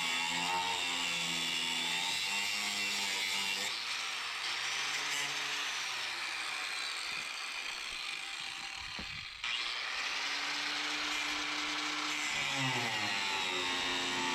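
Angle grinder with a cutoff wheel cutting steel brackets. The motor whine sags and recovers in pitch as the wheel bites. About nine seconds in it drops away, then comes back sharply.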